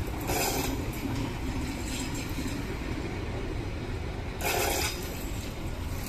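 Passenger train carriages rolling slowly past, a steady low rumble of wheels on rail. Two brief louder rushes of noise come just after the start and again about four and a half seconds in.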